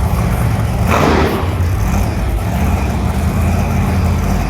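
Mega-Wrex monster truck's engine running hard through donuts, with a brief burst of noise about a second in.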